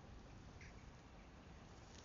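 Near silence: faint, steady outdoor ambience of a forest walk, with one faint, brief high sound about a third of the way in.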